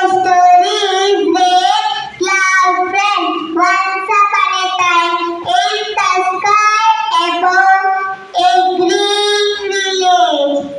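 Children's voices singing a melody, with notes held for about half a second to a second each.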